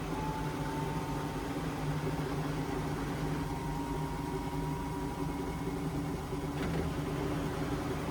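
Indesit washing machine running steadily late in its cycle, most likely spinning: a low hum with a thin motor whine that creeps up slightly in pitch and then holds. A faint click about two-thirds of the way through.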